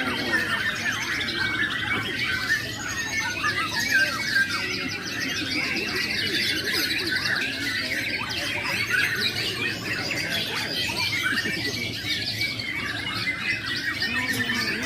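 Many caged songbirds singing at once in a dense, continuous mix of rapid chirps, whistles and trills.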